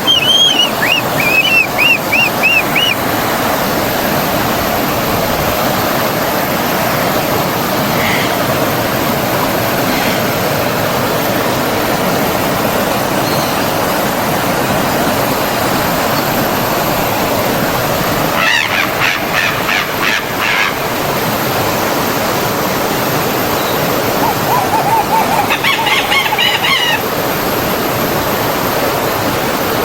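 Forest stream flowing steadily, with birds chirping over it in short runs of repeated notes near the start, about two-thirds through and again near the end.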